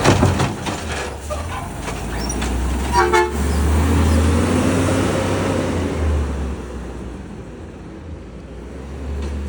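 Garbage truck's diesel engine running, rising for a few seconds and then easing off, with a sharp knock at the start and one short horn toot about three seconds in.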